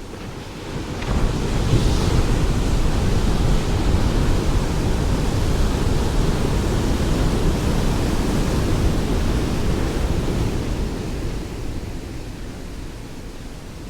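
Ocean waves: surf swells up about a second in as a wave breaks, and its rushing wash holds steady before slowly fading near the end.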